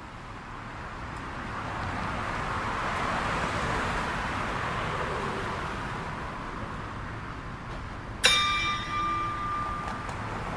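A steady rushing hiss swells over the first few seconds and holds, then a single bell-like ding sounds about eight seconds in and rings on with several clear tones.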